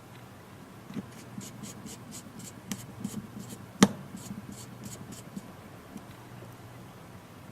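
A small screwdriver working tiny screws into a tablet's frame: a run of light, quick ticks, about four a second, with one sharp click near the middle.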